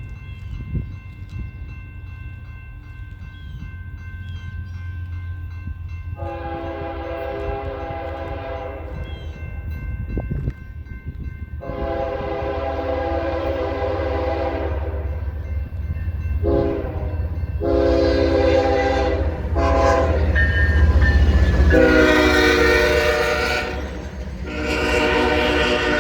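BNSF freight train with two diesel locomotives approaching, the low rumble of the engines and cars growing louder. The locomotive's multi-note air horn sounds repeatedly in a mix of long and short blasts, getting louder as the train nears.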